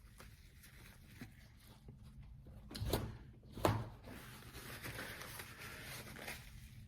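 Close-miked eating sounds of chicken wings being chewed, with two louder sudden crunches or knocks about three seconds in, under a second apart, then a soft rustling.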